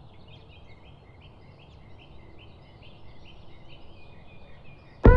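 Quiet outdoor ambience with a bird chirping over and over, short high notes that step up and down in pitch, about three a second. Near the end, loud music cuts in suddenly.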